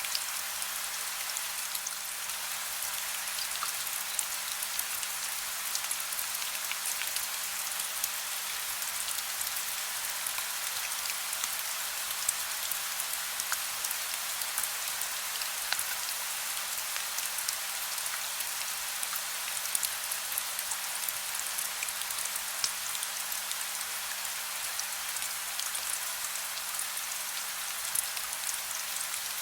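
Soft rain falling steadily: an even hiss with many small, scattered drop ticks. A faint, steady low hum runs underneath.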